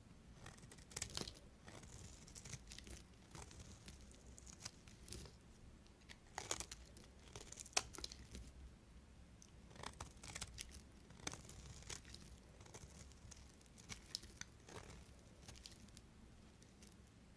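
A knife cutting through bars of soap: faint, irregular crisp crackling and scraping strokes, with a few sharper cuts scattered through.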